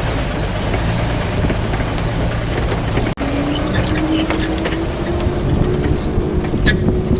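A motor vehicle's engine running steadily. After a short break about three seconds in, its hum rises slightly in pitch.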